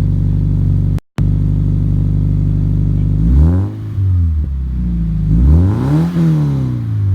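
Car engine idling through its exhaust, then revved twice, each rev climbing and falling back to idle. The sound cuts out completely for a moment about a second in.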